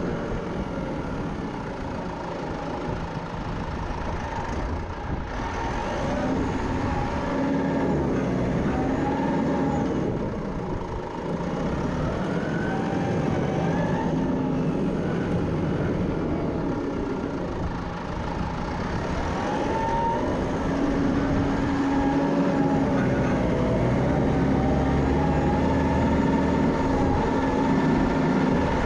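Small tractor's engine running under changing load while clearing snow, its pitch rising and falling as it revs up and settles back.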